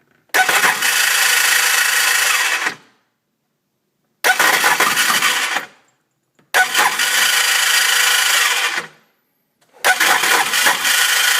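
Sea-Doo GTX DI's electric starter whirring in four separate cranking attempts of one to two and a half seconds each, with the engine not catching. The owner found the cause to be a broken gear in the engine that the starter engages.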